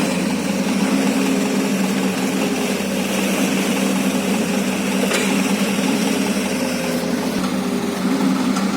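Excavator's diesel engine running steadily, with a constant low hum and a couple of faint clicks.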